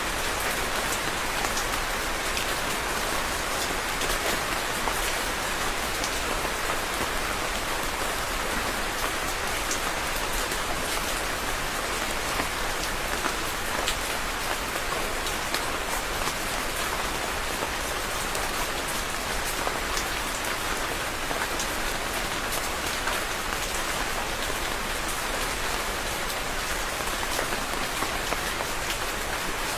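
Steady rain falling on a surface, a constant hiss of rainfall with many fine individual drop taps throughout.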